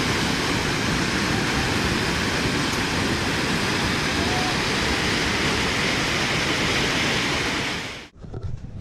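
Overflowing river in flood: a loud, steady rush of fast-moving water. It cuts off abruptly about eight seconds in, and a much quieter stretch follows.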